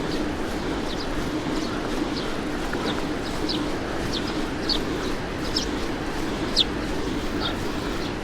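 Small birds chirping in short, quick calls, scattered irregularly, over a steady low background hum.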